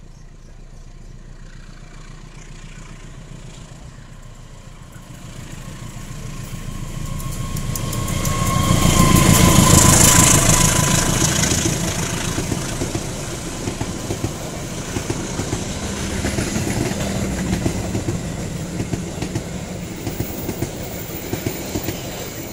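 Passenger train hauled by a CC201 diesel-electric locomotive (GE U18C) approaching and passing close by. Its rumble builds to a peak about ten seconds in as the locomotive goes past, then the coaches' wheels clickety-clack over the rail joints as they roll by.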